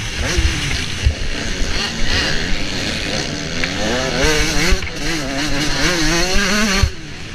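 Motocross bike engine revving hard and easing off again and again as the rider works the throttle, pitch rising and falling, with loud wind rush. The engine drops off briefly near the end.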